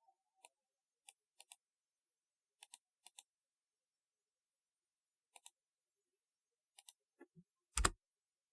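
Slow, sparse keystrokes on a typewriter-style keyboard: about a dozen sharp clicks, some in quick pairs, with pauses between. Near the end a short falling sound is followed by a much louder, deeper thump.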